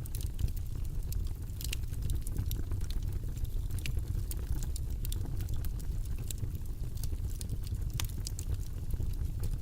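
Steady low rumbling background noise, with irregular light clicks and taps from desk work scattered over it.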